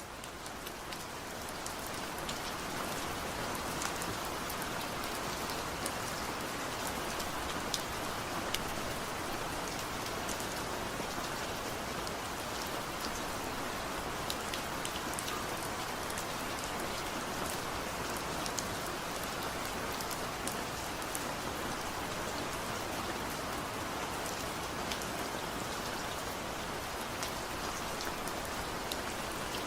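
Steady light rain falling, a constant hiss with scattered sharp drop ticks and no thunder, fading in over the first couple of seconds.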